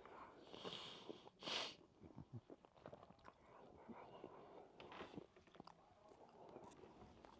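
Faint chewing of a mouthful of rice and okra soup, with small wet mouth clicks and a brief hiss about a second and a half in.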